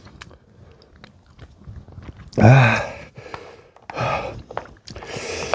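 A man chewing spicy instant yakisoba noodles eaten with chopsticks: soft wet chewing and small clicks, broken by a short voiced murmur about two and a half seconds in and another about four seconds in, then a breathy exhale near the end.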